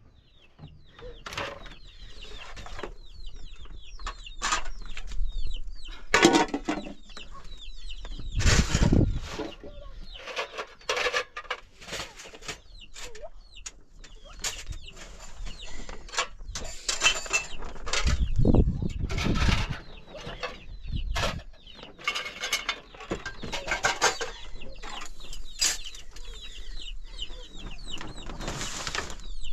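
Poultry clucking and chirping in short, irregular calls, among scattered knocks and rustles.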